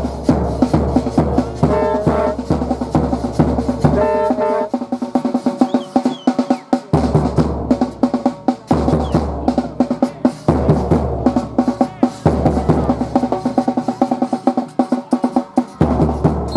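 Percussion music with a fast, steady drum beat of snare and bass drum, and short held pitched notes about two and four seconds in.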